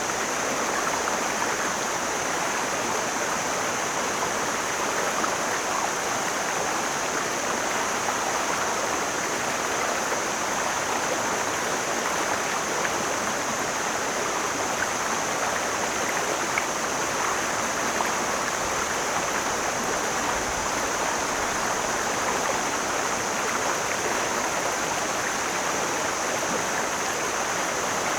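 Mountain stream flowing steadily, a constant rush of water.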